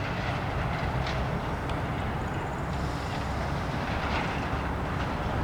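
Steady low rumble of a diesel train running by the station, with a few faint clicks from the rails.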